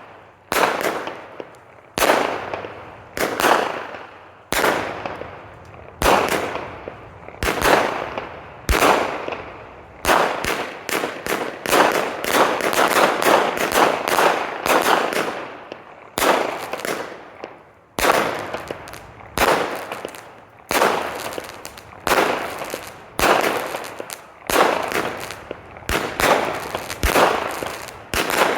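100-shot 500-gram consumer firework cake firing: a long run of sharp bangs, each trailing off in an echo off a nearby large building. About one shot a second at first, coming faster and overlapping through the middle stretch, then spacing out and quickening again near the end.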